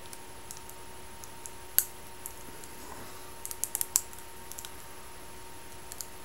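Clear Scotch tape making short, sharp clicks and crackles as it is pulled tight and smoothed around a vape pen battery: one loud click just under two seconds in, a quick run of clicks around the middle, and a couple more near the end.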